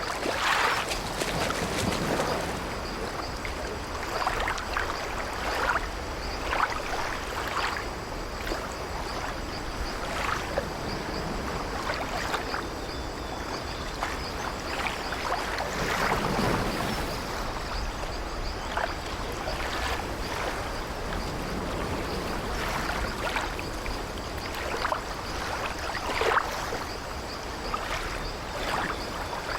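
Sea waves washing against an old wooden ship, over a steady wash of water, with frequent short creaks from the ship's timbers and a heavier swell about halfway through.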